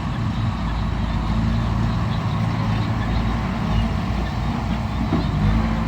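A heavy diesel engine of a bulldozer or dump truck running steadily.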